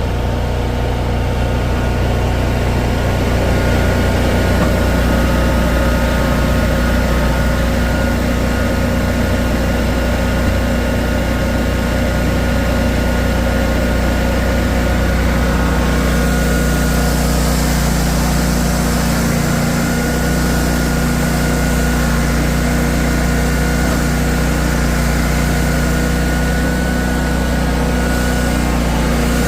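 Engine running at a steady speed, with a constant drone and fixed tones. About sixteen seconds in, a hiss in the upper range grows louder and the tones shift slightly.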